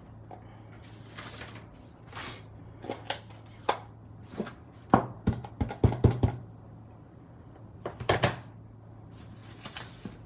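Irregular clicks, taps and light knocks of papercraft supplies being handled on a desk, most of them bunched around the middle. A low steady hum sits underneath throughout.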